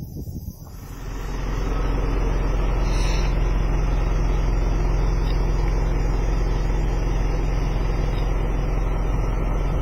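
A steady low mechanical hum, like a motor or fan running, that fades up about a second in and then holds level.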